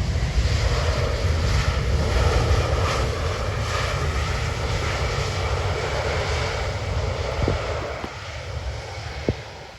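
Jet engines of a landing Airbus A321neo airliner, a loud steady rush with a faint whine, mixed with wind buffeting the microphone; it fades away over the last couple of seconds.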